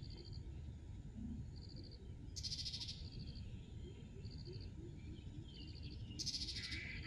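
Small animals calling outdoors: a short high, pulsed trill repeats every second or so. Two louder, buzzier pulsed calls come about two and a half and six seconds in, over a low background rumble.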